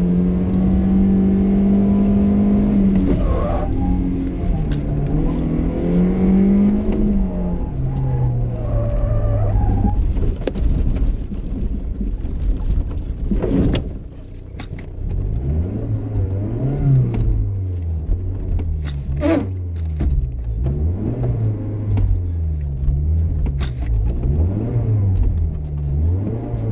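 BMW rally-sprint car engine held at high revs, then shifting and slowing as the car leaves the road. About halfway through there is a sharp crack as it ends up in roadside brush. After that the engine is revved up and down repeatedly, with a few sharp knocks.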